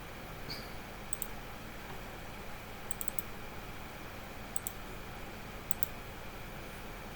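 Sharp clicks from working a computer, mostly in quick pairs or threes, spaced a second or more apart, over a steady low hiss.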